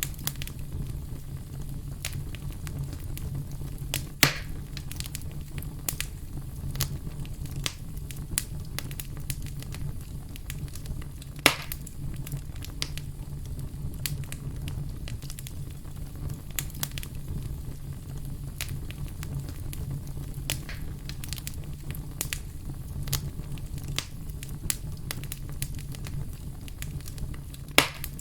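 Wood fire crackling and popping, with a steady low rumble of burning and frequent sharp snaps; three louder pops stand out, about four seconds in, near the middle and near the end.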